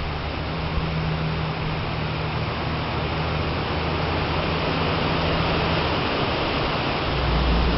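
Strong wind rushing through trees as a cold front moves in: a steady hiss of tossing leaves and branches with a low rumble underneath, slowly growing louder and swelling near the end.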